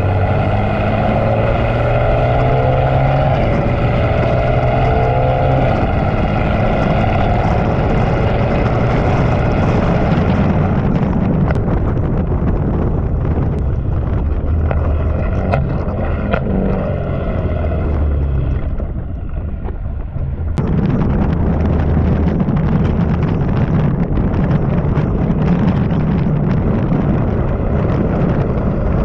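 BMW M3 Competition's twin-turbo inline-six with catless downpipes and a Dinan axle-back exhaust, running under way with its pitch rising through the first seconds, then a rougher, steadier sound. The level drops briefly about nineteen seconds in before the engine picks up again.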